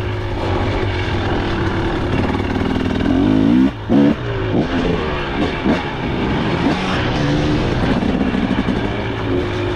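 KTM 300 XC's two-stroke single-cylinder engine pulling under throttle, its pitch climbing steadily, then cutting out for a moment a little under four seconds in before revving up and down in quick swings.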